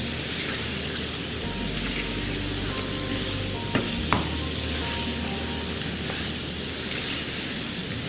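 Pumpkin pieces frying in oil and red masala in a wok, sizzling steadily while a spatula stirs them: the bhuna stage, where the masala is fried into the pumpkin before water goes in. Two sharp clicks of the spatula against the pan come close together a little before the middle.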